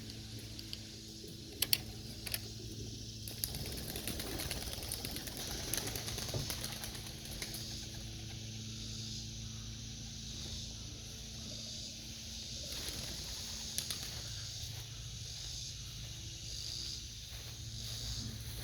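Pigeons flapping their wings as they take off from the loft, with a couple of sharp claps about two seconds in, over a steady low hum.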